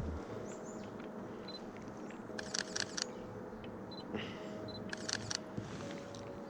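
Camera shutter firing in two quick bursts of several clicks each, about two and a half and five seconds in.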